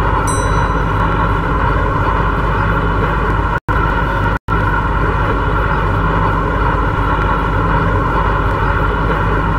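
MTR C-Train electric multiple unit running at speed between stations: a steady, loud running noise with a constant hum. The sound cuts out completely twice, very briefly, around four seconds in.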